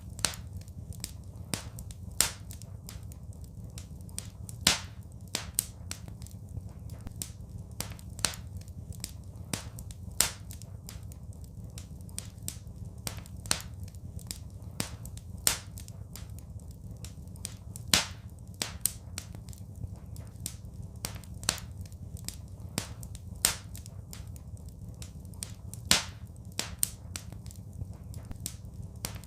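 Wood fire crackling in a fireplace: irregular sharp pops and snaps, several a second, a few of them much louder, over a steady low rumble.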